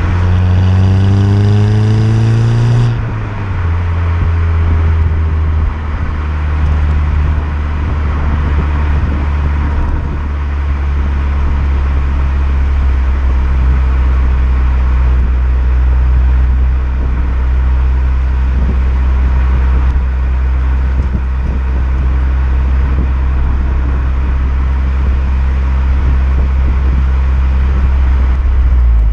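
VW Golf 6 GTI's 2.0 TSI turbocharged four-cylinder pulling under acceleration, revs rising for about three seconds. Then a shift to a higher gear and a long steady drone at constant revs, with road noise over it.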